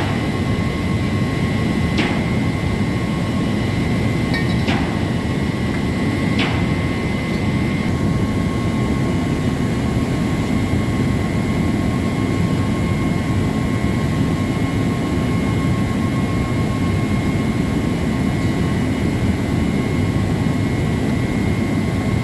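Steady drone of running machinery with a constant high whine, and three sharp knocks in the first seven seconds.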